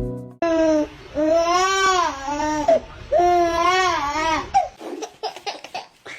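A young child wailing in three long, wavering, whiny cries, the middle one the longest, followed by a few faint clicks.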